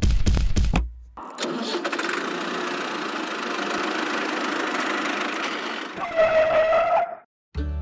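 An engine sound: a fast, loud, pulsing clatter like cranking for about the first second, then steady running for several seconds, with a short steady tone joining in about six seconds in before it cuts off.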